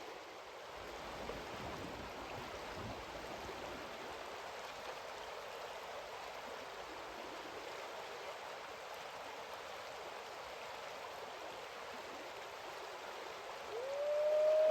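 Kennebec River water rushing steadily. Shortly before the end, a single clear note rises, holds level and then falls, louder than the water.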